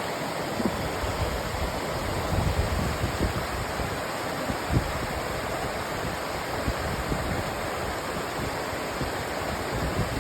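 Rushing water of a cold river, a steady even rush with uneven low rumbling underneath.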